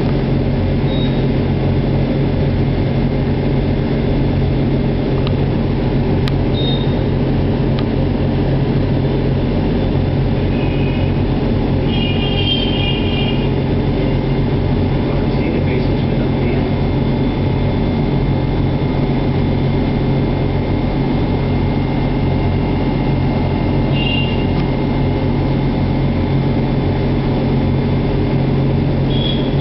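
A steady low mechanical rumble and hum, like a running vehicle, with a few short high-pitched tones about a third of the way in and again near the end.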